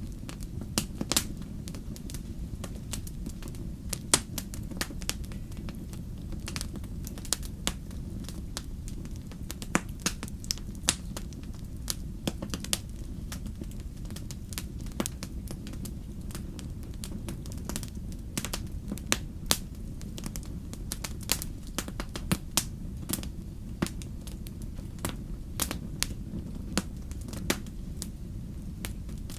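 Wood fire burning, with irregular sharp crackles and pops, a few louder than the rest, over a steady low rumble.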